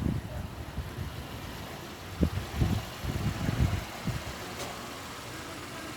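2022 Honda Pilot's V6 engine running at low speed as the SUV creeps into position, with irregular low rumbles just at the start and again between about two and four seconds in.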